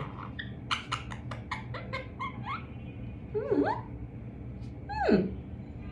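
Pet parrot making a quick run of sharp clicks, then a few short warbling calls, and one call that sweeps steeply down in pitch about five seconds in.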